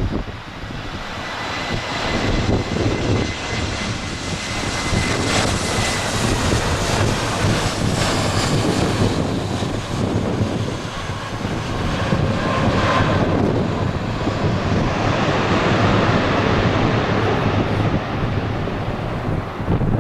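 Airliner's jet engines running as the plane passes close during a landing, a loud, steady rush with thin whining tones that slide down in pitch about halfway through.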